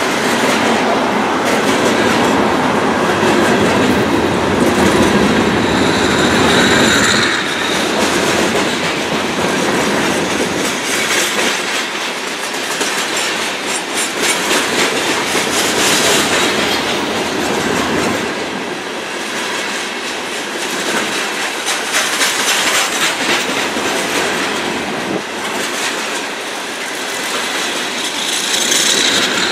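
Loaded coal hopper cars of a long freight train rolling past: a steady rumble with wheels clicking rapidly over the rail joints. A brief high wheel squeal comes about seven seconds in and again near the end.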